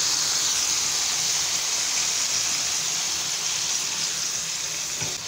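Boneless chicken tikka pieces sizzling steadily as they fry in oil in an uncovered frying pan, a loud, even, high hiss.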